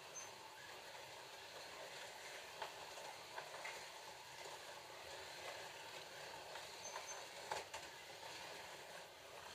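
Slot cars running on a plastic track, their small electric motors giving a steady whirring hiss. A few sharp clicks and clacks break through, the loudest near the end.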